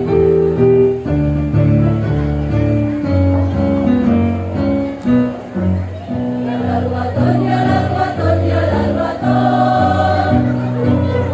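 Women's choir singing with musical accompaniment.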